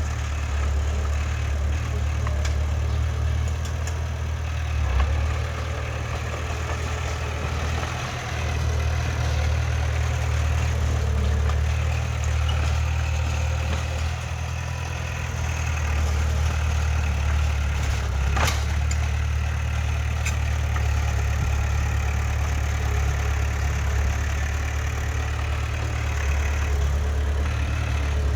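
Heavy diesel engine of earthmoving machinery running steadily with a deep low rumble. A single sharp knock about two-thirds of the way through.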